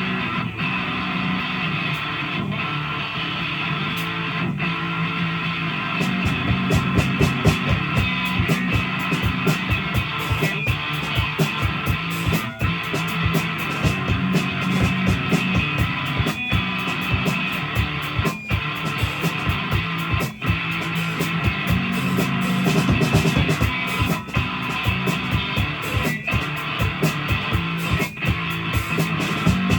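Live rock band playing an instrumental song intro: electric guitar at first, with drums coming in about six seconds in and the music getting louder.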